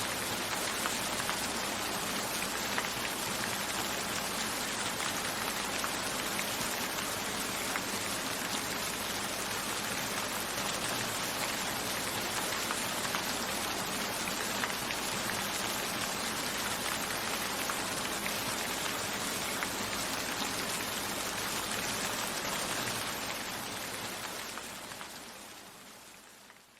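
Steady rain, with raindrops tapping on a window pane, fading away over the last few seconds.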